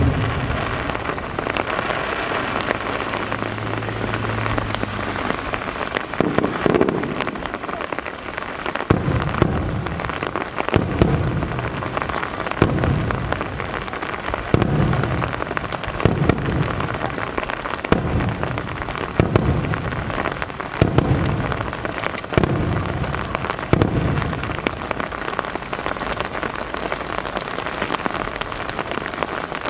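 Steady rain hissing and pattering on nearby surfaces. A string of low firework shell bursts booms through it about every second or two, starting a few seconds in and stopping a few seconds before the end.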